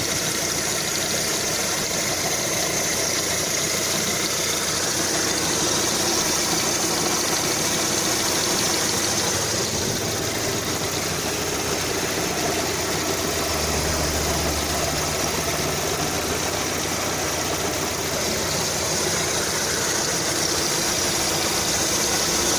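Lada Kalina 2's VAZ-21126 16-valve engine running hot while the car drives, heard as a steady, somewhat noisy engine sound with road noise. The engine has a hot-engine knock under load that the owner suspects comes from a hydraulic lash adjuster.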